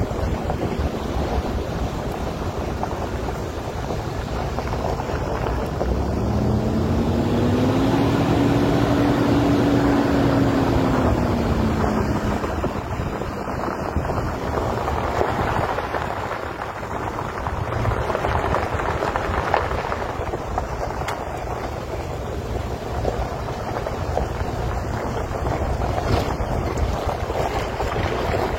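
Rumbling wind noise on the microphone. Between about six and twelve seconds in, a humming tone rises in pitch and then falls away.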